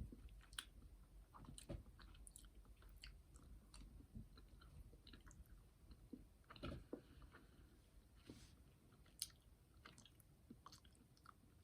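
Faint chewing of a jelly bean candy, with soft, scattered wet mouth clicks and smacks.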